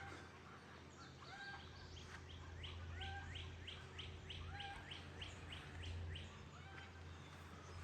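A songbird singing a fast series of repeated sweeping notes, about three a second for roughly four seconds, over a low steady hum.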